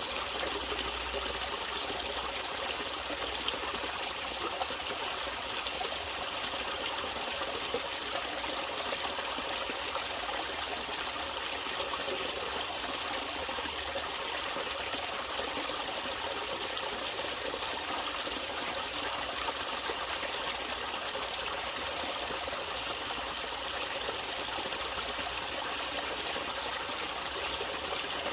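Small stream of water trickling and flowing steadily, a continuous even splashing with no pauses or changes.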